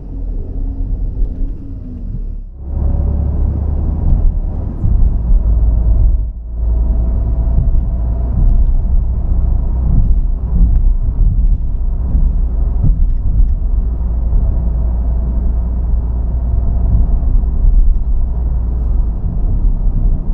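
Car driving on the road: steady low engine and road rumble, with brief drops about two and a half and six seconds in.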